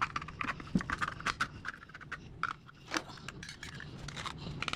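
Knife blade being worked into the metal lid of a cream of mushroom soup can to force it open after the can broke: a quick run of sharp metal clicks, taps and scrapes, busiest at the start, with more near three seconds in and near the end.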